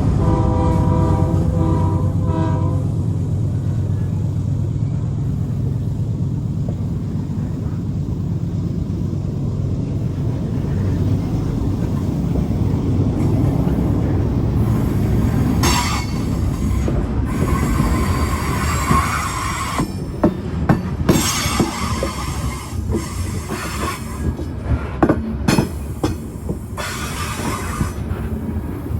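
GE AC4400CW diesel locomotive: its air horn sounds a chord that stops about three seconds in, over the steady low rumble of the engine. In the second half the rumble gives way to rolling train noise, with wheel squeal and a run of sharp clicks as the wheels cross rail joints.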